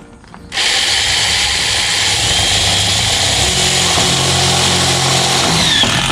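A power tool runs steadily and loudly for about five and a half seconds with a harsh, hissing noise, starting and stopping abruptly.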